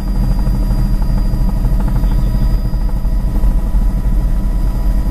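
Helicopter in flight: loud, steady rotor and engine noise with a fast, even beat underneath and a thin, steady whine above it.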